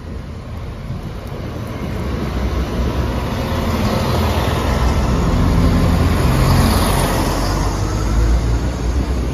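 An East Midlands Railway Class 170 Turbostar diesel multiple unit passing close by over the level crossing: engine and wheel-on-rail noise growing louder as it comes alongside, loudest from about five seconds in.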